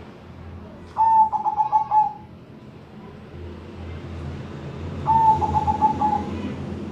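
Zebra dove (perkutut) cooing: two phrases about four seconds apart, each a clear opening note followed by a quick run of short notes, over a steady low hum.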